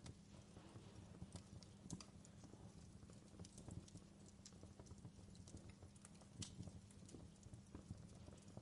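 Faint fireplace crackling: irregular small pops and snaps at uneven intervals over a low, steady rumble.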